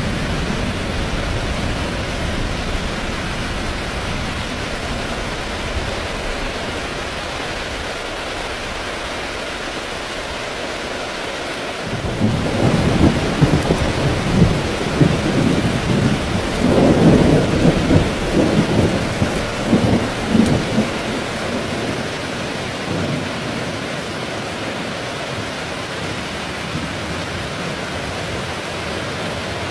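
Heavy rain falling steadily, with a long rolling thunder rumble that sets in about twelve seconds in, swells to its loudest a few seconds later and dies away after about nine seconds.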